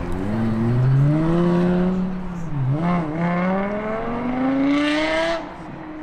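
A sports car's engine revving up under acceleration, its pitch climbing, dipping briefly about two and a half seconds in, then climbing again before falling away near the end.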